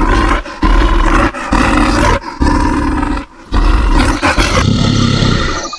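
Bear roar sound effect: a run of loud, rough roars broken by short gaps, with a more drawn-out growl near the end.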